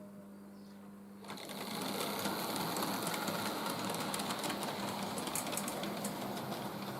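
Two early post-war Hornby Dublo tank locomotives with horseshoe-magnet motors starting up about a second in and running together, a steady electric motor whir with wheel and gear rattle. A low steady hum is heard before they start.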